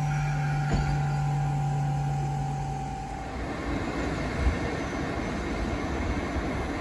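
A train passing on the line. A steady electric hum stops about three seconds in, then the wheels rumble along the rails with a couple of low knocks.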